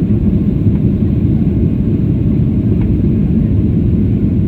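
Steady low rumble of a Boeing 737-800's CFM56-7B jet engines and airflow, heard from inside the passenger cabin during takeoff.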